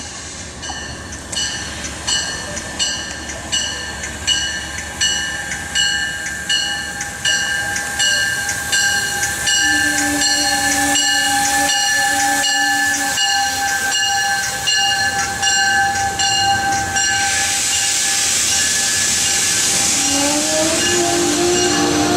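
MARC commuter train coming in slowly for a station stop, its warning bell ringing steadily about once every three quarters of a second over a steady whine. About three quarters of the way through, a loud hiss sets in, and squealing tones start near the end as the train brakes.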